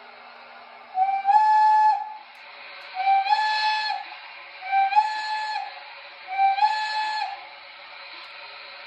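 Steam whistle from an O-scale model steam locomotive's sound system, blown four times at about one-second intervals. Each blast is about a second long and slides up briefly into a steady tone. A steady hiss runs underneath.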